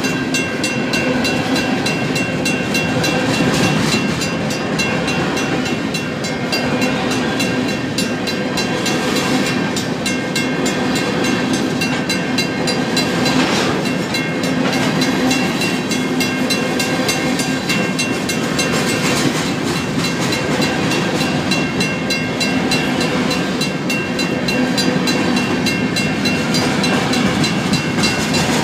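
Grain train of covered hopper cars rolling quickly through a road crossing, with a steady rumble and clatter of steel wheels on rail. Over it, the crossing signal's mechanical bell rings continuously.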